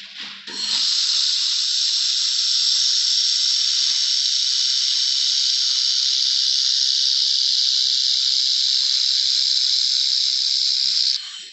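Laser welding and cleaning machine running with a steady high hiss that starts just under a second in and cuts off suddenly near the end.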